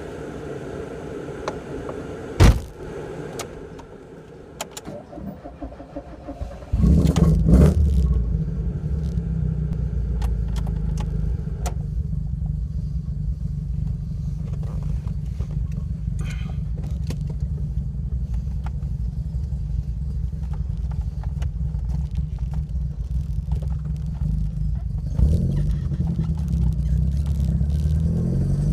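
Alfa Romeo Alfasud Sprint QV's 1.5-litre flat-four boxer engine with a stainless-steel exhaust starting about seven seconds in, after a sharp click. It then idles with a steady low rumble that rises a little near the end.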